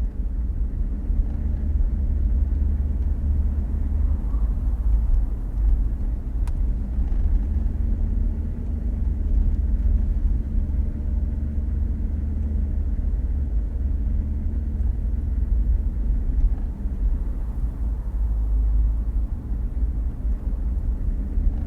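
Jeep Gladiator driving slowly up a trail of slushy snow, a steady low rumble of engine and tyres.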